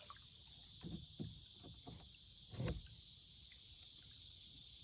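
Steady high drone of insects such as crickets, with a few small knocks and one heavier low thump about two and a half seconds in.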